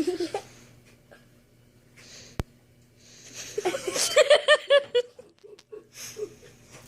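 A person laughing in a quick run of repeated syllables from about three seconds in, fading to softer breathy laughs near the end. A short voice sounds at the very start, and a single sharp click comes in the middle.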